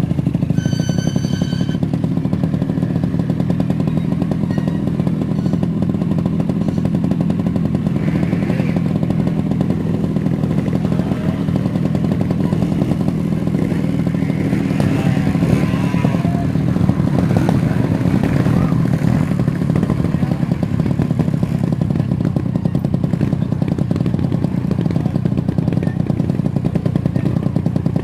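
Trial motorcycle engine running steadily throughout. A brief high beep is heard about a second in.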